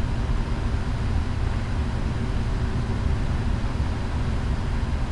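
Steady low rumble heard inside the cabin of a Boeing 777-300ER with its engines running, with a faint steady hum over it.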